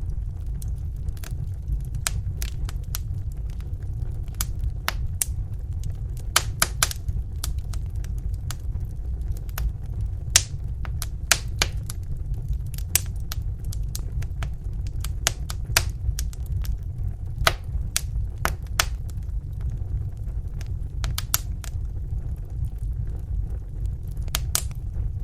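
Wood fire in a fireplace crackling, with irregular sharp pops and snaps, some louder, over a steady low rumble of the flames.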